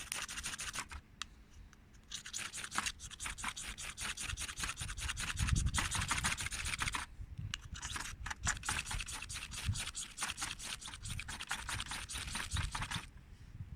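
Ferrocerium fire-starter rod of a Ganzo G8012 survival knife scraped hard with its striker in rapid rasping strokes, in repeated attempts to light grass tinder. Three spells of scraping with brief pauses between them.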